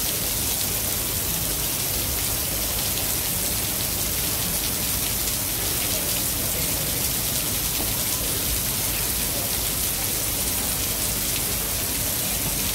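Steady rain falling, a dense even hiss of drops with fine pattering ticks.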